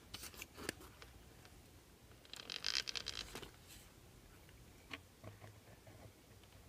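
Small parts of an RC truck being handled and fitted back together: a short burst of rapid clicking and scraping about two and a half seconds in, then a single click near five seconds, with faint ticks between.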